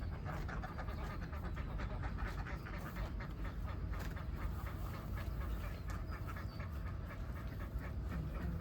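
A flock of domestic ducks quacking and chattering continuously, many overlapping calls at once, over a steady low rumble.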